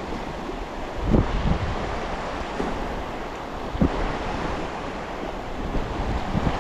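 Sea waves washing against coastal rocks, with wind buffeting the microphone in short low thumps about a second in and again near four seconds.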